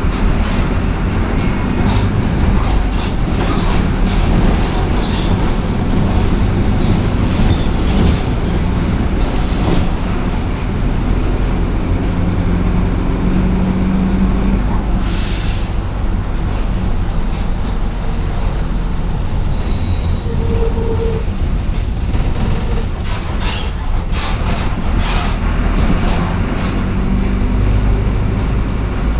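Inside a Mercedes-Benz OF-1721 BlueTec 5 city bus on the move: the front-mounted four-cylinder diesel runs under a steady low rumble while the body and fittings rattle and click. A short burst of air hiss comes about halfway through.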